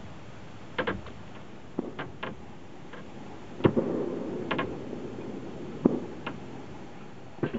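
A series of sharp clicks and knocks at uneven intervals, about a dozen in all. The loudest is a knock about halfway through, followed by a short stretch of rustling.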